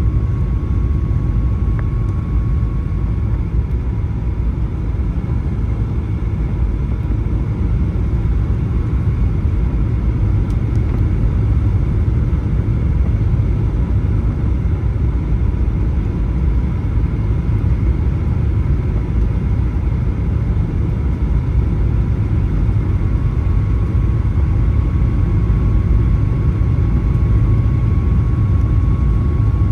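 Cabin noise inside a Boeing 737-900 on approach: a steady low rumble of airflow and its CFM56-7B turbofan engines, with a faint steady whine that fades out a few seconds in and comes back near the end.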